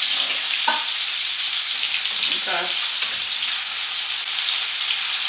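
Chicken frying in hot oil in a skillet, a steady sizzle throughout.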